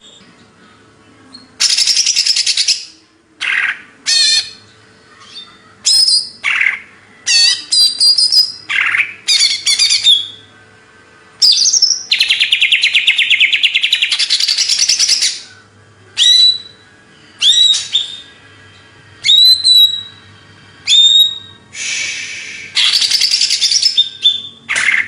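Cucak ijo (green leafbird) singing loudly: long rapid chattering phrases of one to three seconds, broken by short whistled notes that drop in pitch.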